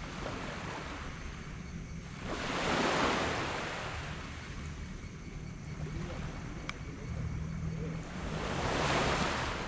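Small tropical waves breaking and washing up a black sand beach: two swells of surf, one about three seconds in and another near the end, each rising and fading away. Under them runs a steady low rumble.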